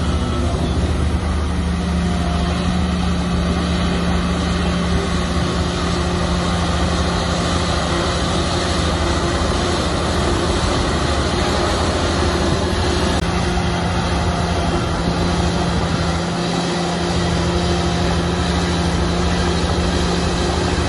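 Shantui bulldozer's diesel engine running steadily, with a brief dip in the low drone about sixteen seconds in.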